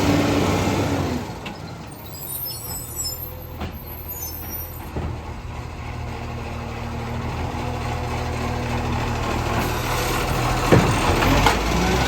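Garbage truck's diesel engine running. It drops to a lower, quieter note about a second in and builds back up through the second half, with two sharp knocks near the end.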